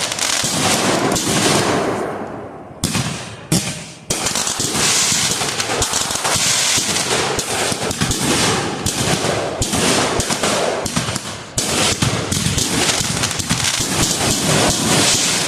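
Fireworks going off in dense, rapid crackling volleys like strings of firecrackers, with a brief lull about two to four seconds in.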